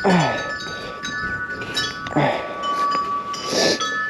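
Wind chimes ringing, several long notes overlapping and fading in and out.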